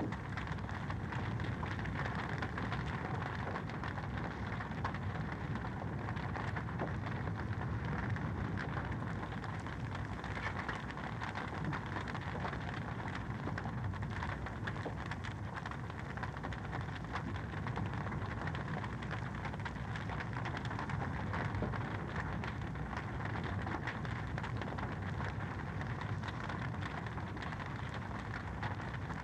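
Fire crackling steadily, a dense run of small pops and snaps over a steady hiss.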